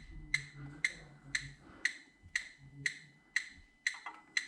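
Electronic gas leak detector ticking steadily about twice a second, each tick a short high beep.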